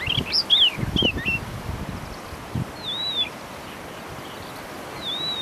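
Small bird calling: a quick run of varied high chirps, then the same short rising-and-falling whistle twice, about two seconds apart. Low knocks and rustling come in the first second or so.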